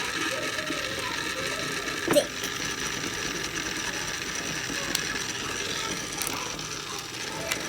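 Small motorized egg-decorating spinner running steadily with a grinding, ratchet-like whir, with a sharp click about two seconds in.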